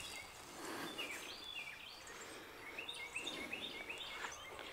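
Songbirds singing in the background: quick runs of short chirps, faint overall.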